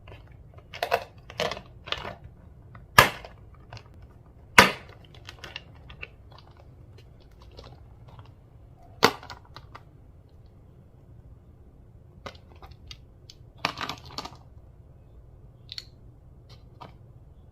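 Slime being handled and pressed, giving scattered sharp pops and clicks, the loudest about three and four and a half seconds in.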